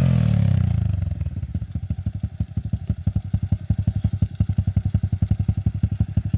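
Dirt bike engine just started, its revs falling through the first second or so, then settling into a steady idle with an even pulsing of about eight beats a second.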